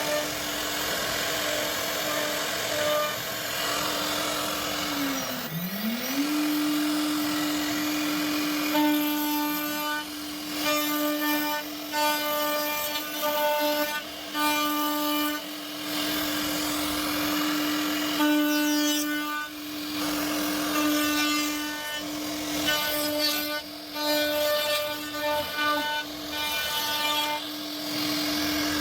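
CNC router spindle running with a steady high whine. About five seconds in its pitch dips sharply and climbs back. From about nine seconds the bit is cutting wood in short repeated passes, adding a harsher buzzing that starts and stops every second or so.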